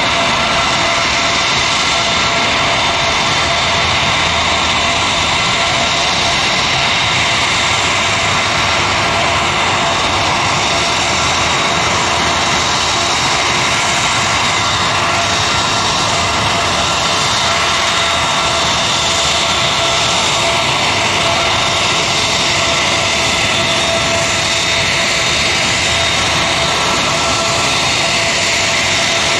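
Aircraft turbine engines running steadily: a loud, even rush with a constant high whine that holds its pitch throughout.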